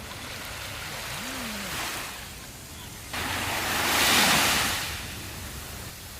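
Sea waves on a sandy beach: surf washing in, with one wave breaking suddenly about three seconds in, loudest a second later, then washing out.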